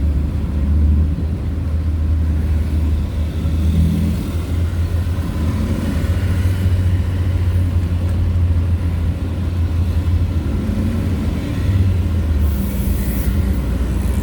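Vehicle on the move: a steady, heavy low rumble of engine and road noise, with a brief hiss near the end.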